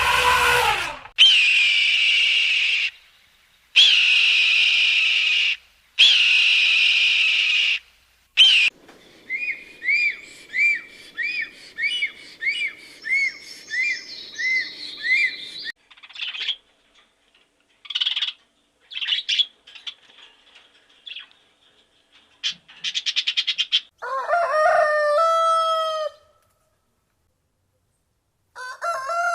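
A series of different bird calls cut one after another: three long calls of about two seconds each, then a run of about a dozen evenly spaced chirps, then assorted short calls and trills.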